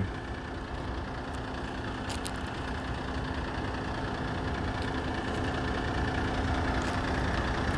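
Diesel engine of a new 2022 Kenworth dump truck idling steadily: a low rumble with a steady hum, growing slightly louder toward the end.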